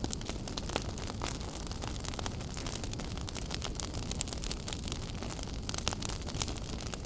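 Wood fire burning in a fireplace: a steady low rumble of the flames with constant small crackles and a few sharper pops.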